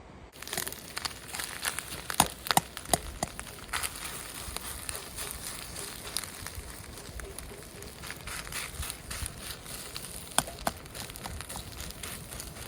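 Wood campfire crackling and popping, with sharp irregular snaps over a steady hiss. The sound starts abruptly just after the beginning.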